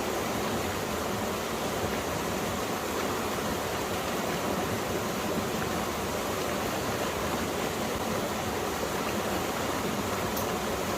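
Mountain stream water flowing and splashing over rocks, a steady, even rushing.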